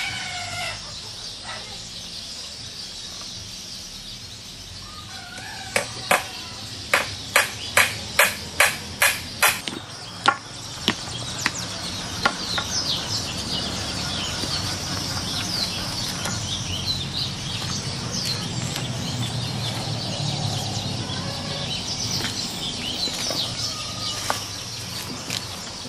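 A run of about a dozen sharp blows from a hand tool, roughly two to three a second, while fence posts are being set. Then birds chirp steadily over a low hum.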